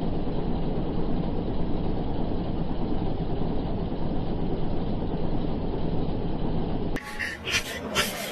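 Steady, muffled rumble of a vehicle in motion, even and without distinct events. About seven seconds in it gives way to a quieter sound with a few short, sharp clicks.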